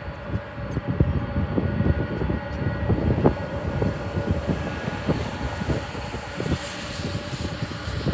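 Jet airliner engines running with a steady whine, their high hiss swelling in the second half, under heavy wind buffeting on the microphone.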